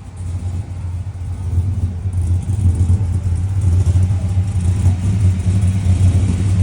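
LS2-swapped 1975 Chevy Caprice's V8 engine running with a deep, steady exhaust note. It grows louder over the first few seconds, then holds.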